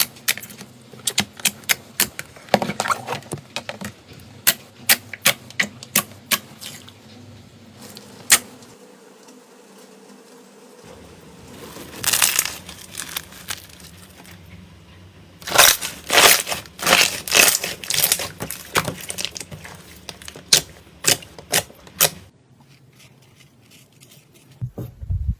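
Slime being squeezed and poked by hand, making a run of sharp clicking pops and crackles. There is a denser burst of crackling about twelve seconds in, and a longer one from about fifteen to nineteen seconds.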